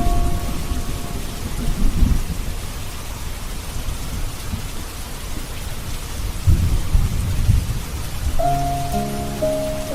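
Steady rain falling, with two low rolls of thunder, one about two seconds in and a longer one near the middle. Soft sustained music notes come in near the end.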